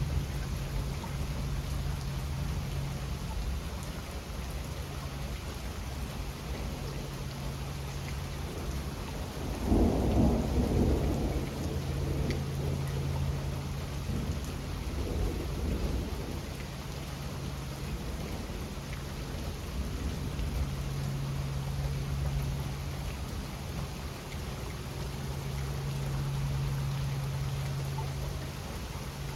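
Steady rain with thunder; a louder roll of thunder swells about ten seconds in and fades over a couple of seconds, followed by weaker rumbles a few seconds later.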